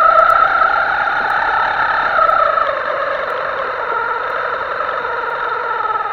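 Electric motor of a Himoto RC boat whining steadily, its pitch shifting up and down with the throttle.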